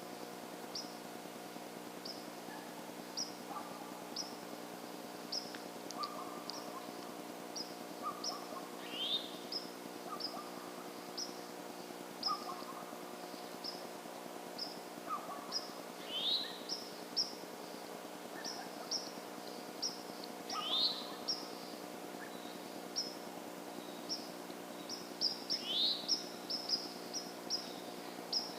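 Birds calling: a steady run of short, high chirps, with a rising whistled call about every five seconds. A steady low hum runs underneath.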